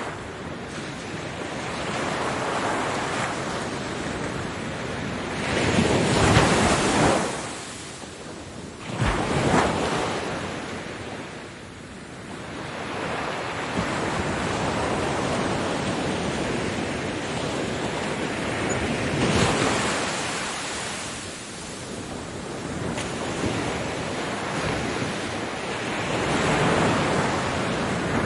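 Ocean waves breaking on a beach, the surf swelling and falling with each wave. The two loudest breakers come close together about a third of the way in, and gentler washes follow.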